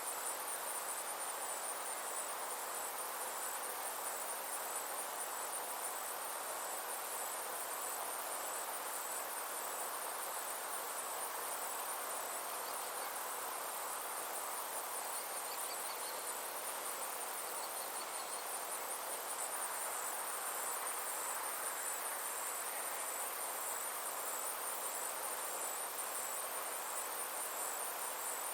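Summer insects singing: a steady, high-pitched trill with a fast even pulse, over a constant hiss. A few faint, brief higher notes come through near the middle.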